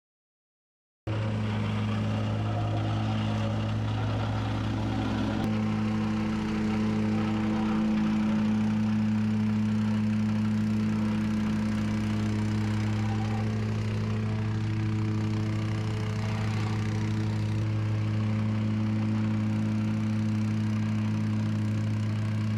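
Engine running steadily at a constant speed, starting abruptly about a second in.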